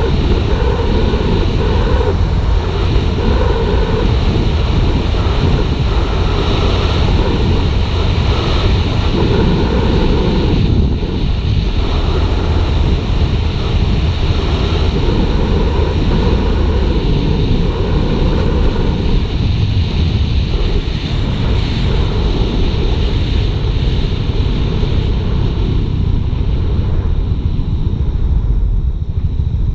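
Heavy wind noise on an action-camera microphone while riding a Suzuki GSX-R 150, with the bike's single-cylinder engine running underneath. The upper hiss thins out near the end.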